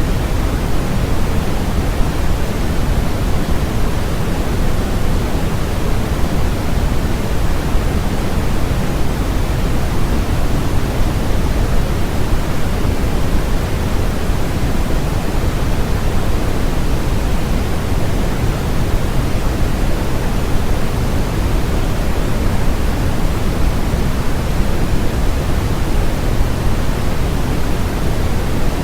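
Continuous electronically generated white noise, steady and unchanging, with more weight in the low end than in the highs.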